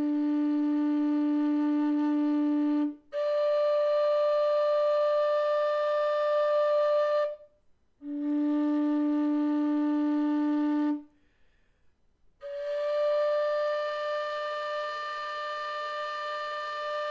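MK Pro low D whistle playing its bottom bell note, low D, then the D an octave above, each held for three to four seconds; the pair is then played a second time.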